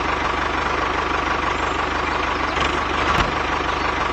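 Small engine running steadily at an even idle-like pace, with a single sharp knock about three seconds in.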